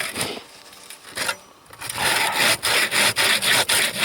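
Hand bow saw with a 70 cm blade cutting through frozen wood: a few tentative strokes at first, then from about halfway in a fast, even back-and-forth sawing rhythm.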